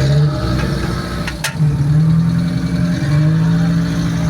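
Off-road vehicle's engine revving up and down under load, with a sharp knock about a second and a half in.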